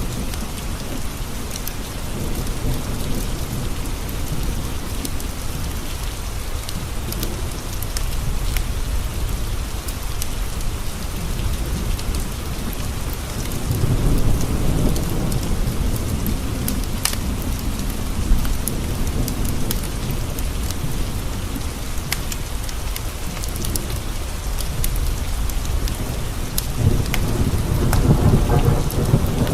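Steady rain falling, with thunder rumbling low: one roll swells about 13 seconds in and another builds near the end. Scattered sharp clicks sound over the rain.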